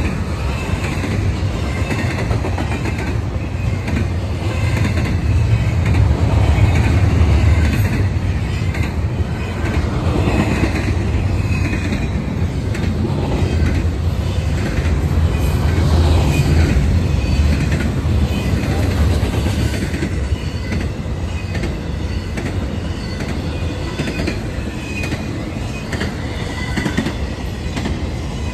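BNSF intermodal freight train rolling past at speed: a continuous rumble of steel wheels on the rails with clickety-clack from the rail joints and faint, short wheel squeals. It swells louder twice, about six and sixteen seconds in.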